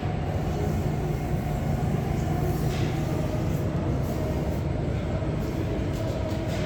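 A car engine running with a steady low drone.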